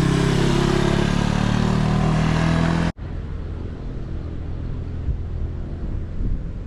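Honda XR150 single-cylinder motorcycle engine running steadily under way, with wind and road noise. About three seconds in, the sound cuts off abruptly and gives way to a quieter low rumble and wind noise on the microphone.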